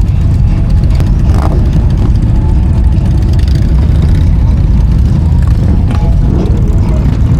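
Motorcycle riding at a steady pace, a loud, even low rumble of engine and road noise with no let-up.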